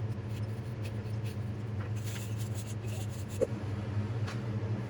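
A steady low hum with a few faint clicks and light handling sounds, one sharper tick about three and a half seconds in.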